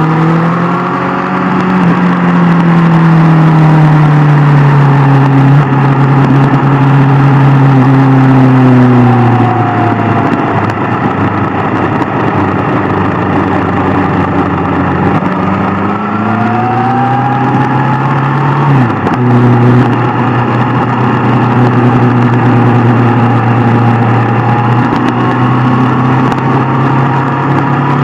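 Inline-four sport motorcycle engine running under way, with a steady rush of wind noise. The engine note holds, eases off and drops about a third of the way through, then climbs again past halfway with a brief break in the note, like a gear change, and settles into a steady pitch.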